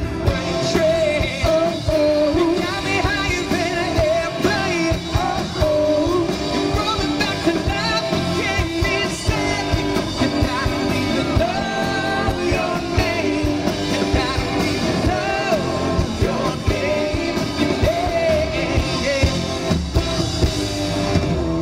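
Live rock band performing an original song: a male lead vocal singing over drums, electric guitars and bass, played at a steady full level.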